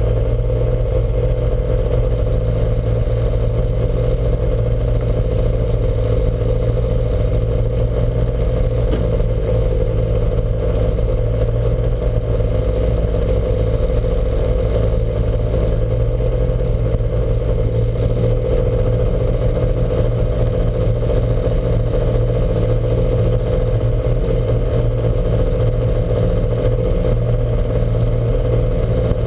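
Lancia Montecarlo's engine running at steady, unchanging revs.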